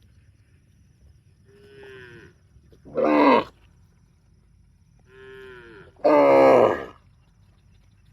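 A cow mooing twice, about three seconds apart. Each moo starts with a quieter, shorter sound and then rises into a much louder call.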